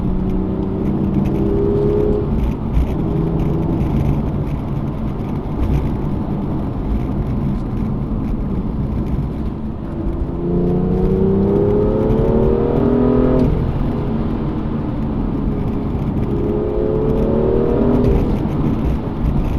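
BMW M2's N55 turbocharged straight-six on the stock exhaust, accelerating hard over steady road noise. Its note climbs through the revs about ten seconds in and again near the end, each pull dropping sharply at the upshift.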